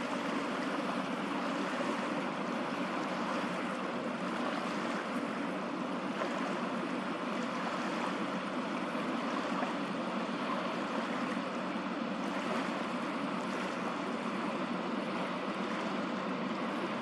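Steady rushing of water around a moving boat, an even wash of noise with no distinct strokes or changes.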